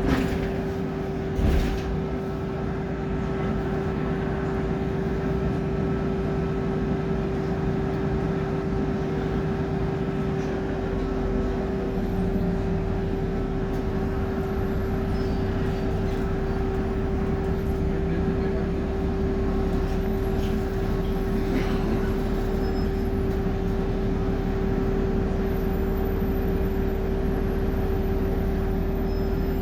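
A BMC Procity city bus's Cummins diesel engine running, heard from inside the cabin, with a steady whine throughout. There are two knocks in the first couple of seconds, and the low rumble gets heavier about twelve seconds in.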